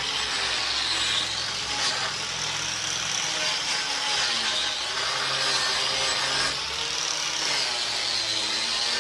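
Angle grinder with a surface preparation pad scouring rust scale off a steel fuel tank strap. Its high whine wavers up and down in pitch as the pad is worked over the metal.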